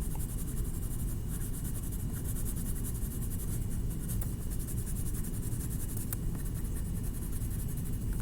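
Rapid back-and-forth colouring strokes scratching steadily on paper while the wings are shaded in green.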